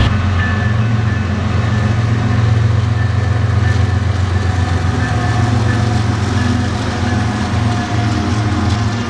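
Diesel locomotive engine idling steadily with a deep, even hum.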